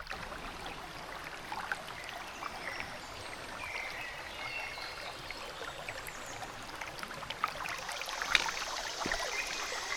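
Running water of a forest stream, a steady rush, with a few sharp clicks or snaps; the loudest comes about eight seconds in.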